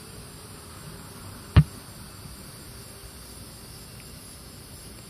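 Steady evening insect chirring, cricket-like, with a single sharp knock about a second and a half in.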